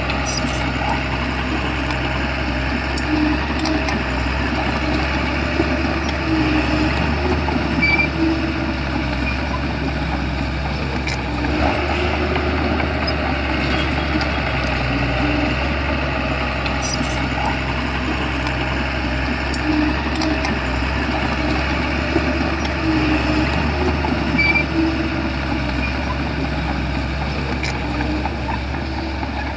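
Shantui bulldozer's diesel engine running steadily under a low hum, with mechanical squeaks and clicks over it.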